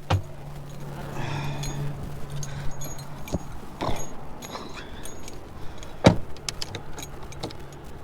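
A truck engine's steady low hum under a string of sharp clicks and knocks, the loudest about six seconds in, with jangling like keys being handled.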